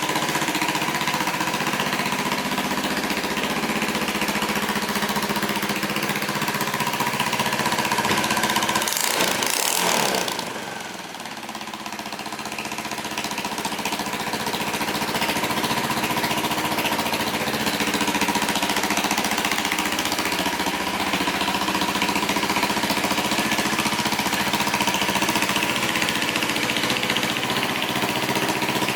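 Honda Vision 110 scooter's single-cylinder four-stroke engine running steadily, with a short rise about a third of the way in, then dropping quieter before settling back to an even run.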